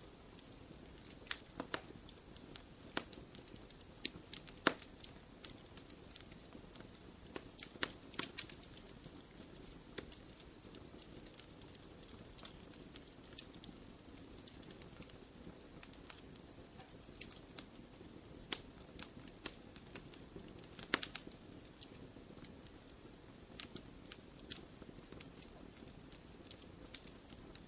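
Wood fire burning in a fireplace: irregular sharp crackles and pops over a soft steady hiss, with one louder pop a little past the middle.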